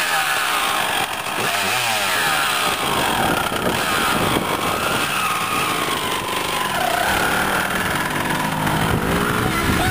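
Suzuki dirt bike engine running under way, its revs rising and falling in quick sweeps at first, then running more evenly.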